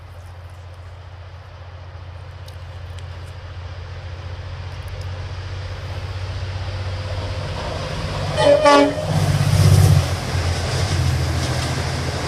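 Diesel passenger train approaching, its engine hum growing steadily louder. About eight seconds in it gives one short horn blast, then the train rushes past close by.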